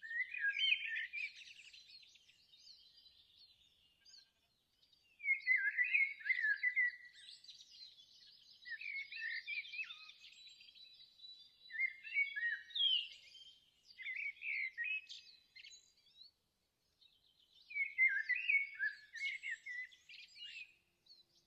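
Songbirds singing short, quick, warbling phrases every few seconds, with pauses between them. A thin, steady high note is held faintly for a few seconds in the middle.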